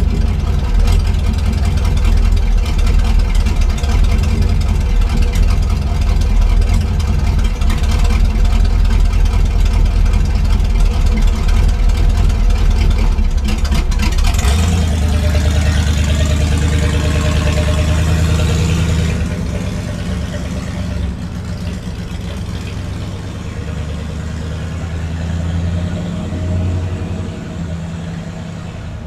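A 1979 International Harvester Scout II's 345 cubic inch V8 running on open headers with the exhaust removed, a loud, deep rumble. About halfway through the sound changes, and from about two-thirds of the way in it grows quieter.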